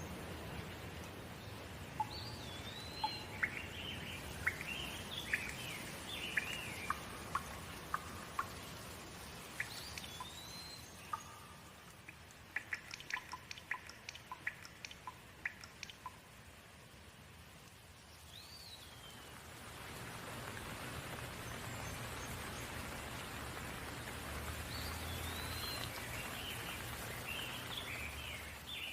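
Steady rain hiss with birds chirping and whistling over it in several bouts, and a quick run of sharp ticks about halfway through. The rain grows louder after about two-thirds of the way in.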